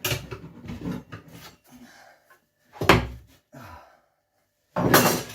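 Knocks, scrapes and rustling as a clipped-on cover is worked loose by hand. There is a sharp knock about three seconds in and a louder scraping rush near the end.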